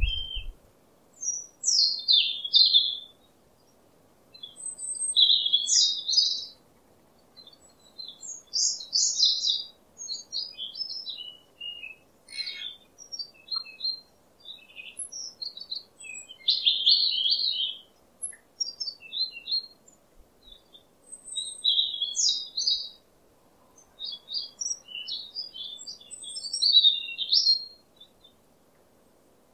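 Birds chirping: short, high-pitched phrases of song, one every second or two.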